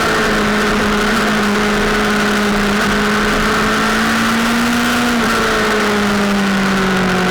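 Sportbike engine running hard at high revs with steady wind rush. The engine note drifts slowly and steps in pitch about five seconds in.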